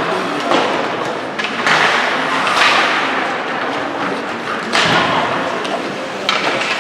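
Ice hockey play in a rink: several sharp knocks and thuds of puck, sticks and players against the boards and ice, with rushes of hiss between them.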